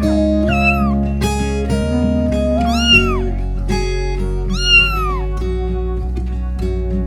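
A cat meowing three times, each meow rising and then falling in pitch, over steady background music.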